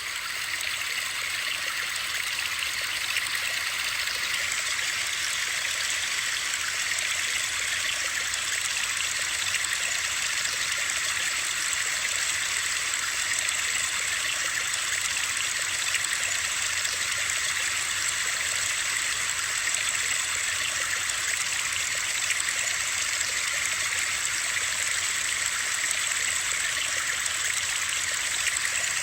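Steady, unbroken rushing of running water used as a white-noise sleep track, hissy and even throughout.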